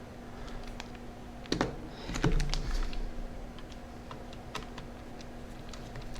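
Light clicks and taps of small objects being moved about on a cluttered workbench, with a louder knock about a second and a half in and a short clatter just after.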